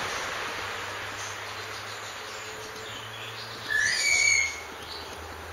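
A single bird call about four seconds in: a short rising note, then held briefly, clear and high-pitched. It sits over a steady outdoor hiss.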